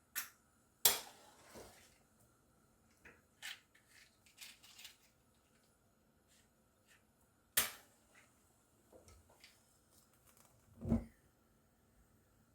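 Pressure cooker and its lid being handled: two sharp metal clacks, the first about a second in and the second about seven and a half seconds in, scattered lighter clicks between, and a dull heavy thud about eleven seconds in.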